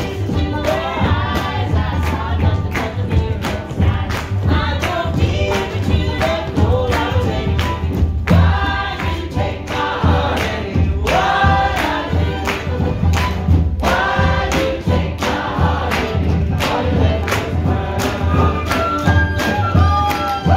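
Live acoustic music: several voices singing together, with no clear words, over a steady beat of sharp percussive strikes.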